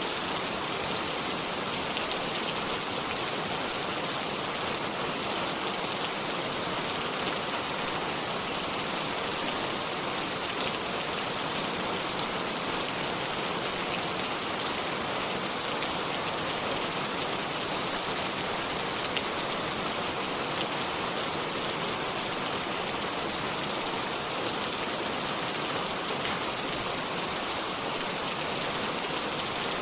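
Steady rainfall, a dense even hiss of raindrops landing on leaves and surfaces with many small individual drop ticks.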